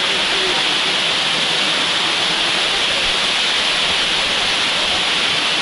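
Waterfall rushing: a steady, loud, unbroken hiss of falling water.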